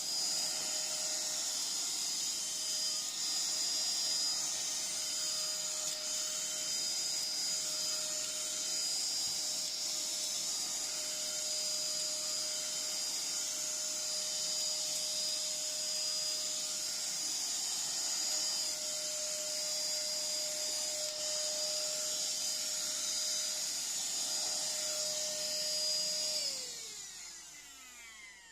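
Milunho 9500Pa cordless handheld vacuum running steadily with a high motor whine while vacuuming up debris from a floor. Near the end it is switched off and the motor winds down, its pitch falling away.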